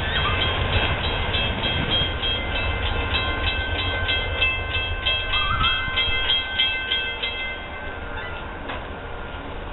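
Amtrak train passing: a heavy low rumble with steady high-pitched tones and a run of wheel clicks at about three a second, easing off near the end.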